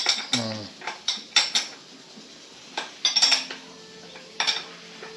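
Metal tools and motorcycle fork parts clinking and knocking against each other in a string of sharp clinks, in small irregular groups.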